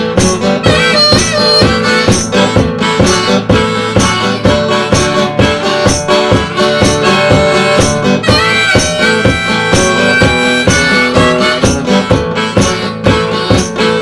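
Instrumental break in a country-style song: a harmonica solo with bending, held notes over guitar and a steady drum beat.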